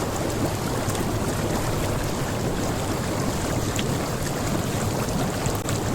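Hot tub's air jets bubbling and churning the water with a steady, even rush.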